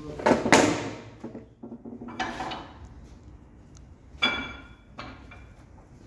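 Metal parts and tools clattering and clinking during a brake job, loudest in the first second, with one sharp clank about four seconds in that rings briefly.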